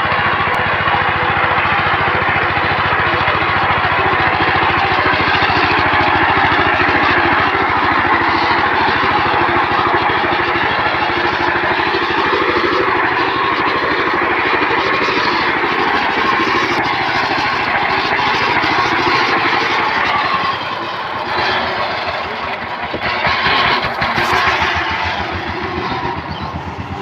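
Power tiller engine running steadily with a fast, even firing beat; about two-thirds of the way in it drops a little in loudness and the beats become more distinct.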